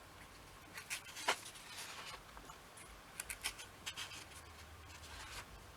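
Paper rustling and light clicks as the pages of an old comic book are handled and turned, in short bursts about a second in and again in the middle.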